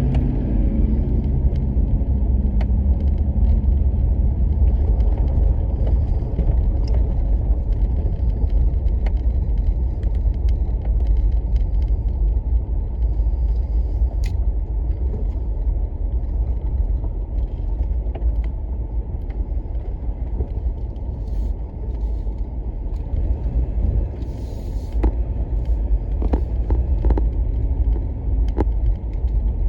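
Steady low road rumble of a car driving, heard from inside the cabin, with a few faint clicks and ticks.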